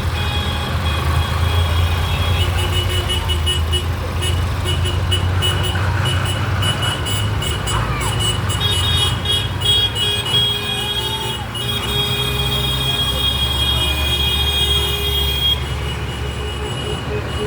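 Tractor engines running steadily as the tractors pass in procession, with high repeating tones over the engine noise.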